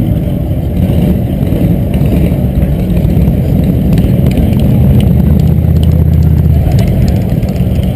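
Car engine running with a deep, steady exhaust rumble; a steadier low drone sets in about five seconds in and eases off near the end.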